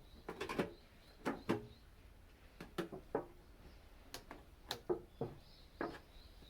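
Irregular light knocks and clanks of a thin metal tin being worked by hand, about ten over a few seconds, some ringing briefly. Birds chirp faintly near the end.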